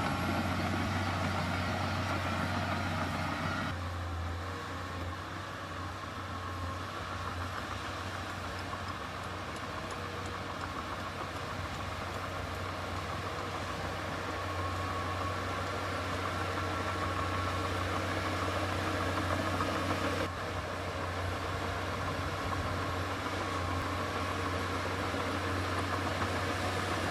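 Diesel engine of heavy earthmoving equipment running steadily at a low, even pitch, with sudden shifts in the sound about 4 seconds and 20 seconds in.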